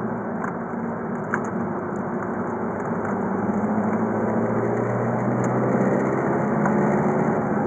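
VW Golf V 2.0 TDI four-cylinder turbodiesel running steadily under way, its note rising slowly in the second half as the revs build. A couple of light clicks come in the first second and a half, from the microphone rattling.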